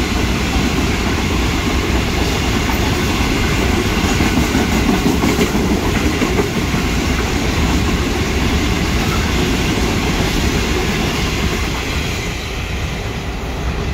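Empty wheat train, a long rake of grain wagons, rolling through the station: a steady, loud rumble of wheels on rail that eases a little near the end.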